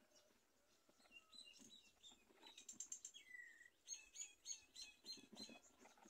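Faint, high bird chirps in two quick runs, the first about two and a half seconds in and the second about four seconds in, with a short falling whistle between them.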